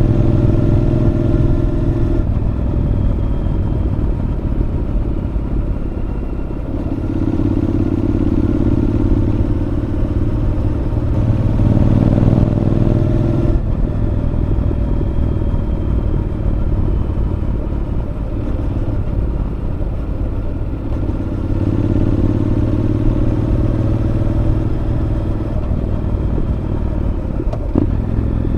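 Honda NC750X parallel-twin engine through a Moriwaki aftermarket muffler, riding along a winding road. The engine note swells as the throttle is opened three times, early on, around the middle and again later, then eases back off throttle in between. A single click comes near the end.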